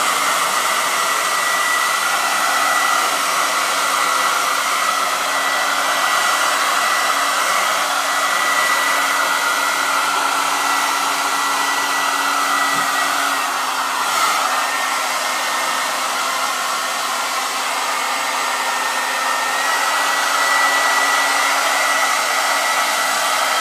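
Handheld hair dryer running steadily: a constant airy hiss with a thin high whine from its fan motor.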